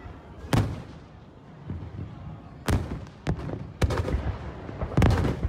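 Aerial fireworks shells bursting: about six sharp booms spread over five seconds, each with a short echo, the loudest pair near the end.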